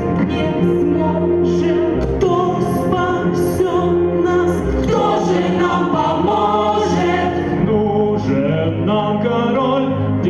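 Song with several voices singing together over a backing track.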